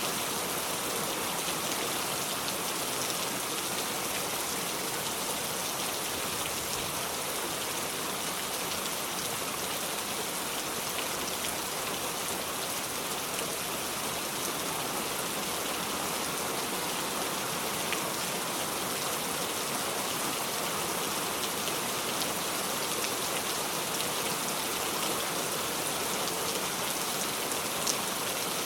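Steady heavy rain without thunder: a dense, even hiss of rain falling on a surface, with fine drop ticks throughout.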